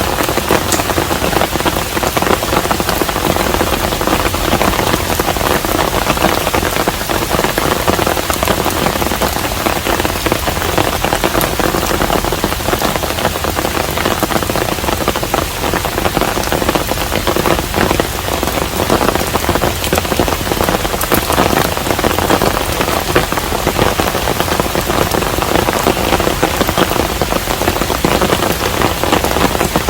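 Steady rain falling on a hanok, a traditional Korean house: a dense, even patter of countless drops that does not let up.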